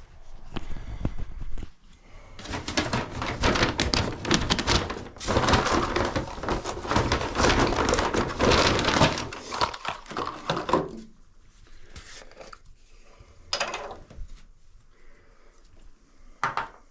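Rustling and clattering of handled plumbing parts and packaging, dense and crackly for several seconds in the middle, then a few scattered clicks and knocks.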